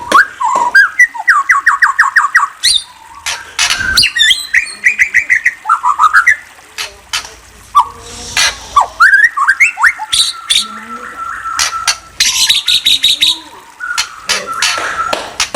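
A songbird singing a varied song of sweeping whistles, rapid trills of repeated notes and harsh squawk-like calls, phrase after phrase with short gaps between.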